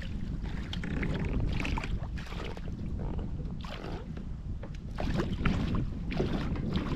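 Wind rumbling on the microphone, with water lapping and splashing irregularly around a kayak.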